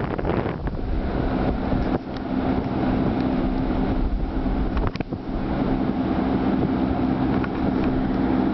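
Snowstorm wind buffeting the microphone in gusts, over a steady low hum.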